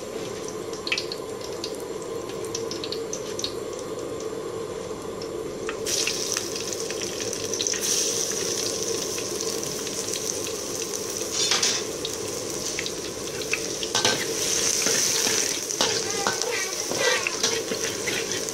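Minced garlic sizzling in oil in a steel wok while a metal spatula stirs it, scraping and clinking against the pan. The sizzle grows much louder about six seconds in.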